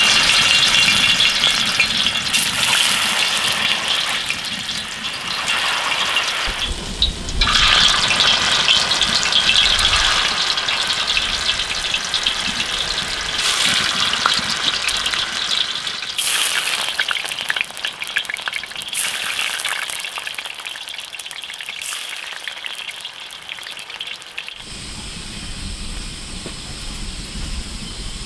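Tofu frying in hot oil in a wok: a loud, crackling sizzle, easing off somewhat in the later part.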